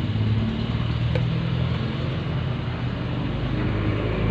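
Reconditioned electric fan motor running steadily: a low, even mains hum over a steady rushing noise.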